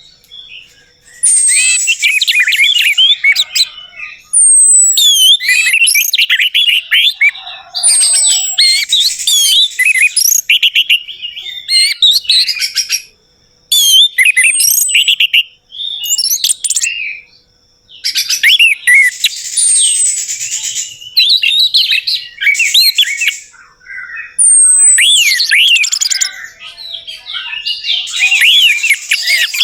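Orange-headed thrush singing: long, varied phrases of quick whistles and chatter, with short falling high notes. Brief pauses fall around the middle.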